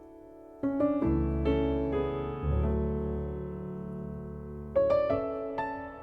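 Slow piano music: chords struck a few times, each left to ring over a sustained low bass note.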